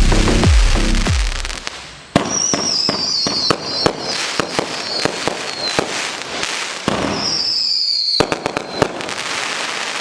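Electronic music with a pulsing bass fades out over the first two seconds. Then the DCF5490 K 49-shot fireworks cake goes off in a rapid stream of sharp pops and crackling, with two long high whistles that each drift slightly down in pitch.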